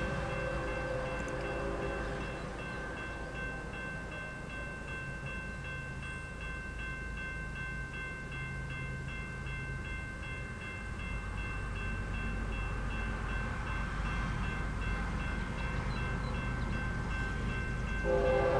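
Approaching loaded freight train led by GE ES44DC diesel locomotives. The lead locomotive's chord horn fades out in the first couple of seconds and sounds again loudly near the end. The engines' low rumble grows from about halfway, under a steady ringing that repeats about twice a second.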